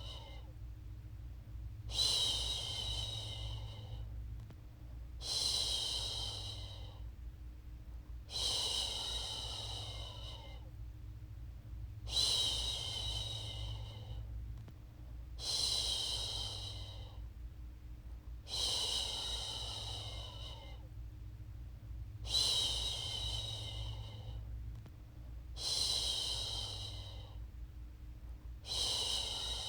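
A woman's voice shushing "shhh" to settle a baby to sleep: long hissing shushes, each about a second and a half, repeated at a steady pace about every three and a half seconds.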